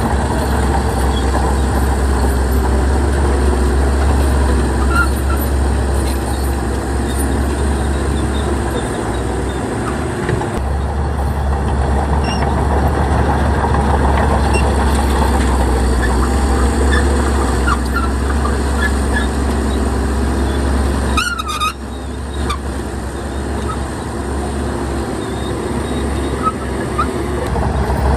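Heavy diesel earthmoving machinery running under load, a loud steady engine drone with deep low rumble, easing briefly twice. About three-quarters of the way through comes a short wavering high-pitched squeal.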